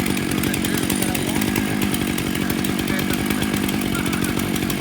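Chainsaw engine running steadily at high speed, holding an even pitch without easing off.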